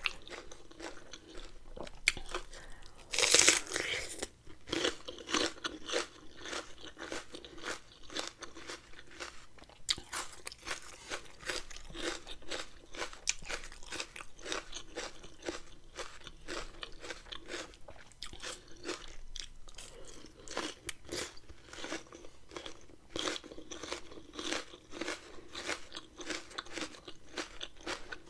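A person chewing and crunching a mouthful of rice-noodle salad with shrimp and raw vegetables: a steady run of crunches and chewing, with one louder crunch about three seconds in.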